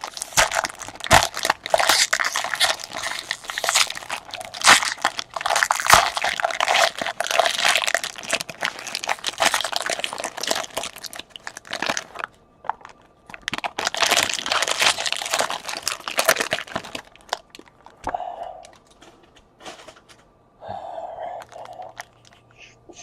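Foil wrappers of baseball card packs crinkling and tearing as packs are handled and opened: long stretches of dense crackling, with a pause about twelve seconds in and a final stretch before it turns to quieter handling noises near the end.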